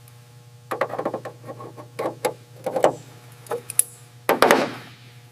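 Irregular knocks and clatter from equipment being handled, with a brief louder scraping rush about four seconds in, over a steady low hum.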